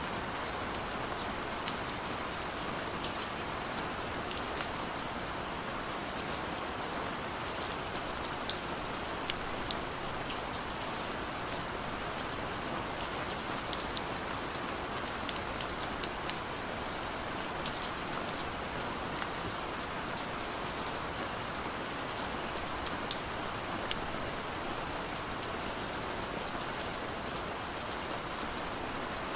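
Steady gentle rain falling, an even hiss with scattered sharp ticks of individual drops hitting a surface.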